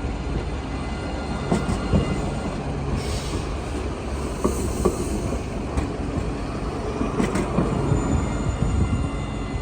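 A tram running along its rails: a steady rumble with several sharp knocks from the wheels and a faint high squeal of steel wheels on track.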